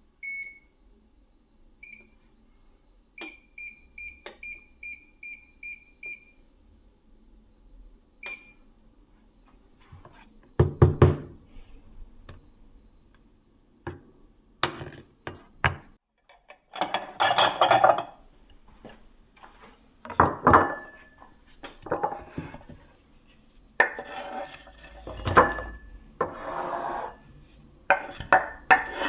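Short electronic beeps from a kitchen appliance's controls, about a dozen in the first eight seconds with a quick run of eight in the middle, then the clatter and knocks of pots, pans and utensils being handled.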